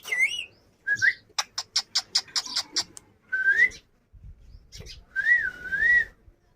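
Indian ringneck parrot whistling: short rising whistles, a quick run of sharp clicks, then a longer whistle that wavers up and down twice near the end.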